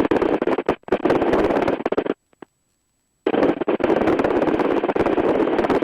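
Crackling rush of noise from a RotorWay A600 Talon helicopter's headset intercom microphone in gusty wind. It cuts off abruptly to silence for about a second near the middle, then comes back.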